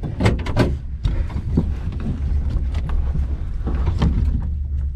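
Twin-turbo engine of a 1962 Chevy Nova wagon running at low speed as a steady deep rumble, with a few sharp clicks or rattles near the start and again about four seconds in.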